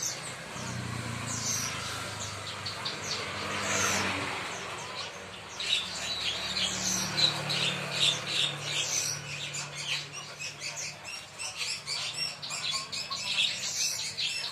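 Many small caged birds chirping together in a dense, overlapping chatter of quick high notes, over a faint low hum.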